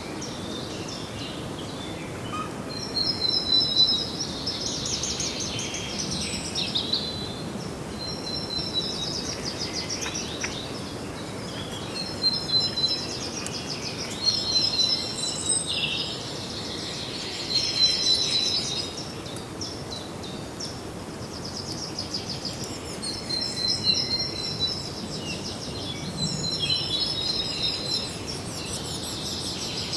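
Songbirds singing high-pitched, trilled phrases, each a second or more long and repeating every few seconds, over a steady background hiss.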